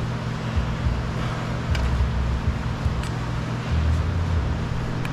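Steady outdoor background noise with wind rumbling on the microphone and a couple of faint clicks of handling; it cuts off abruptly at the very end.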